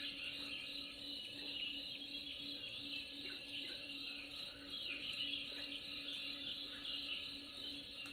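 Nature soundscape: birds giving repeated short falling chirps and a steady insect trill over the even rush of a stream.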